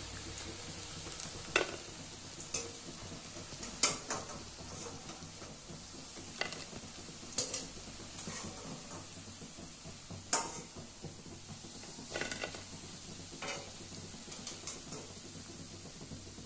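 Green-onion pakoras frying in hot oil in a kadhai, a steady sizzle. Sharp clinks of a metal slotted spoon come every one to three seconds as the fried pakoras are lifted out.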